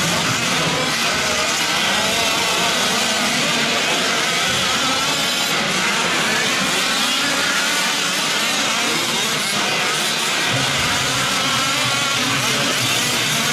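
Several 1/5-scale gas RC trucks' small two-stroke engines racing at once, many overlapping engine notes rising and falling in pitch as they rev.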